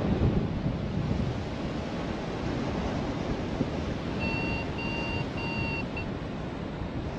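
Strong wind rushing over the microphone during a paragliding flight. About four seconds in, a paragliding variometer gives a short run of steady beeps, three longer and one short, signalling lift.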